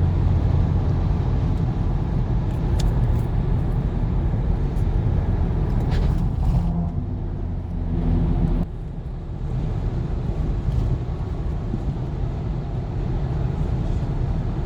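Car driving: steady engine and road noise, strongest in the low end. The engine note rises briefly about six to eight seconds in, then the noise drops a little.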